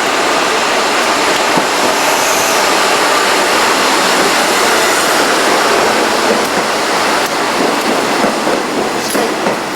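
JNR 50-series passenger train running on the rails, a loud steady rush of wheel and rail noise with a few faint clicks near the end.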